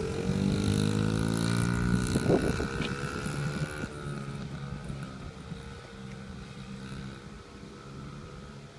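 Small dirt bike engine running under throttle as the bike passes close, loudest in the first few seconds, then dropping in pitch and fading as it rides away.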